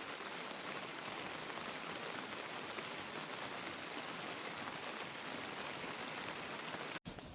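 Steady rain falling, an even hiss with a few faint drop ticks; it cuts off abruptly near the end.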